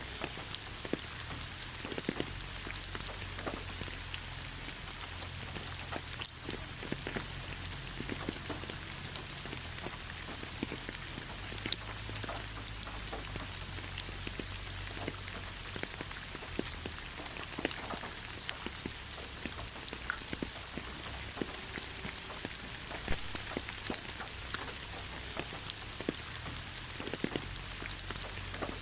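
Steady rain: a constant hiss of falling rain with many close individual drops pattering on a surface.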